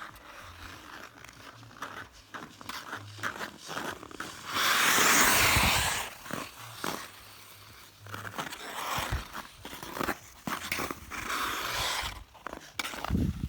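Ice skates on smooth pond ice: a run of sharp clicks and knocks, with one loud scraping skid of the blades about four and a half seconds in, lasting over a second.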